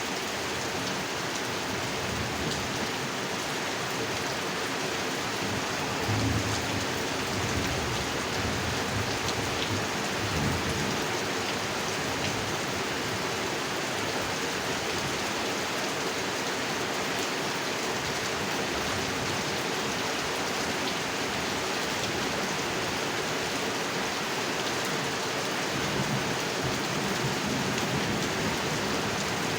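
Steady heavy rain falling onto a pond, a dense even hiss of drops on water. Low rumbles swell under it about six seconds in, again around ten seconds, and near the end.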